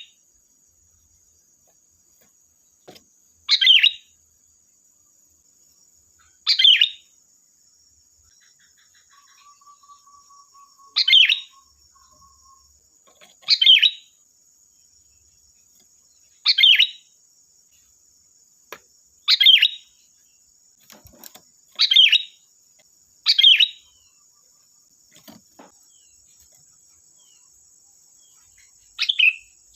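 Sooty-headed bulbul (kutilang) giving short, loud calls, about nine of them, repeated every two to four seconds. A faint steady high-pitched insect drone runs underneath.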